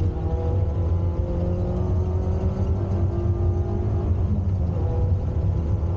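Peugeot 106 Rallye rally car's four-cylinder engine driven hard, heard from inside the cabin: a heavy low rumble with the engine note rising and dipping a few times.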